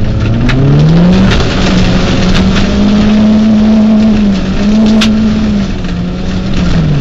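Peugeot 206 rally car's engine heard from inside the cabin, revving up to a high, steady note about a second in and holding it. It dips briefly a little past halfway and drops back near the end. Tyre and road noise from the dirt track runs beneath it, with one sharp knock about five seconds in.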